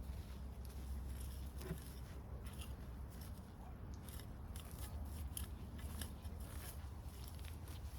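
Irregular crisp snips and crackles of sweet potato vines and dry soil being handled, over a steady low rumble.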